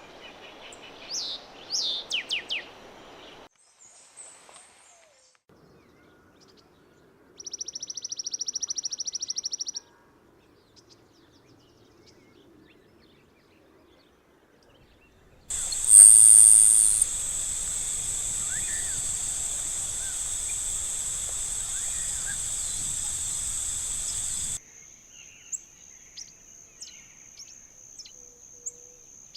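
Wild birds calling in several separate recordings cut together: quick sweeping whistled notes, then a fast, even trill, then faint chirps. About halfway through, a loud, steady, high-pitched drone runs for about nine seconds.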